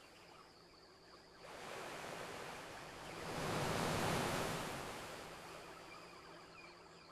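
Ocean waves washing onto a shore: a hiss of surf that swells in about a second and a half in, is loudest around four seconds, then slowly fades.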